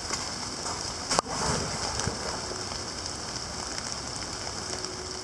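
Steady rain falling through woodland, with one sharp click about a second in.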